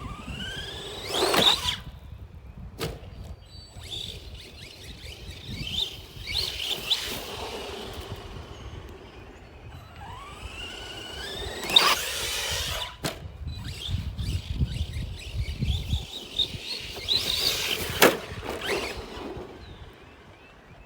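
Arrma Granite 3S RC monster truck's electric motor and drivetrain whining up in pitch through four hard full-throttle runs. Each run ends in a loud rush of noise with sharp knocks and clatters, the loudest about twelve and eighteen seconds in.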